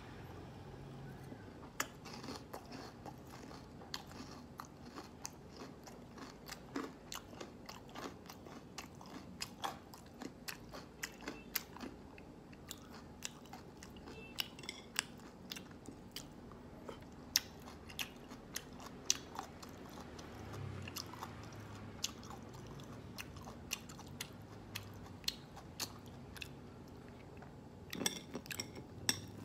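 Close-up chewing of crispy breaded fried pork, with many sharp crunches and crackles at an irregular pace. Near the end, a quick cluster of clicks from metal chopsticks on the plate.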